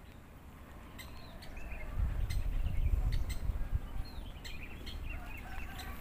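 Scattered short, high bird chirps over a low rumbling noise on the microphone that swells from about two seconds in and eases off near the end.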